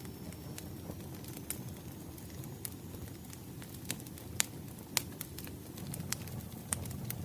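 Wood fire crackling: a steady low rumble of burning logs with irregular sharp pops, the loudest two about four and five seconds in.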